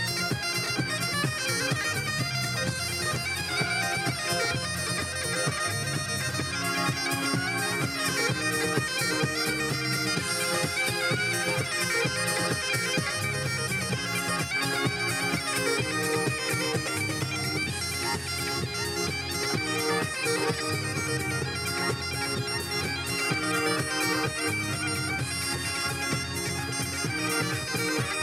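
Bagpipes playing a lively tune over their steady drone.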